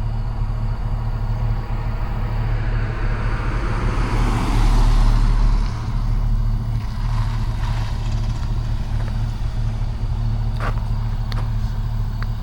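Steady low drone of a car's engine and road noise, heard from inside the car. About four to six seconds in, another vehicle passes close by as a swell of tyre and wind noise that rises and then fades.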